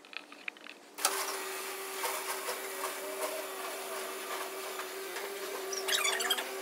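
Electric winch motor starting about a second in and running with a steady whine, pulling the race car up into the trailer. A rising squeal comes in near the end.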